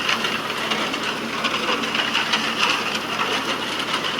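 Tractor-operated self-loading concrete mixer running: a steady mechanical hiss with continual small clattering.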